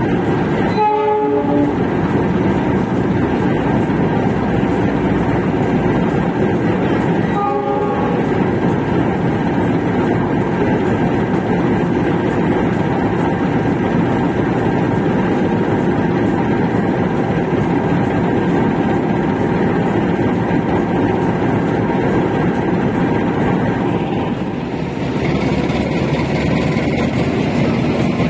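Express passenger train rushing through at speed behind its diesel locomotive: a steady loud roar of wheels on rail, with short locomotive horn blasts about a second in and again about eight seconds in. Near the end the sound dips and changes to a steadier hum.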